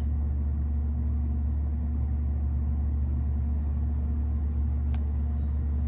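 Steady low rumble and hum of an idling car, with one short click about five seconds in.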